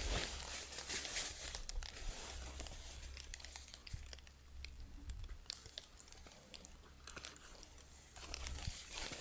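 Crinkling and rustling handling noise with scattered small clicks and crunches, busier at the start and again near the end.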